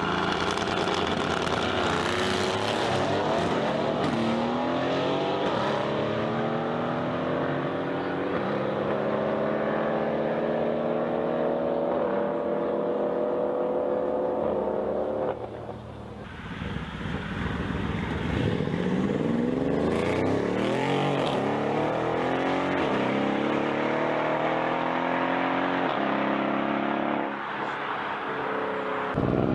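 Mercedes-AMG car's engine and exhaust under hard acceleration, the pitch climbing and dropping back with each gear change. About halfway through the sound falls away abruptly, then climbs through the gears again.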